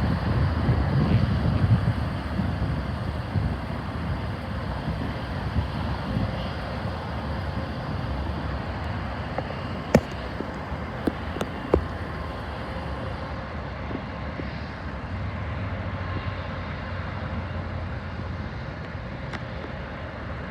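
Outdoor rumble with wind on the microphone, louder over the first few seconds and then easing to a steady level, with a few sharp clicks about halfway through.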